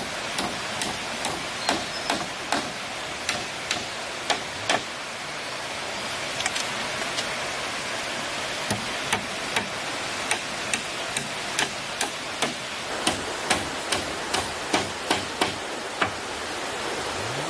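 Sharp knocks of a tool striking bamboo, about two a second, in two runs with a pause of a few seconds between them, over the steady rush of a stream.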